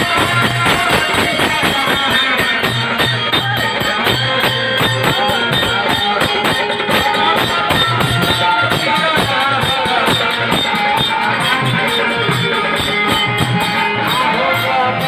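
Purvi folk music: hand percussion and jingles keep a steady, fast beat under a wavering melody line.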